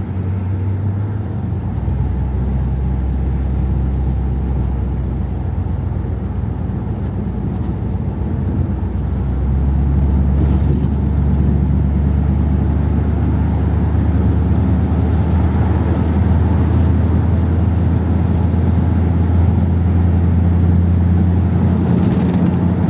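The 1957 Ford Thunderbird's V8 engine running while the car is driven, heard from inside the car. The engine note shifts about two seconds in and grows louder about ten seconds in.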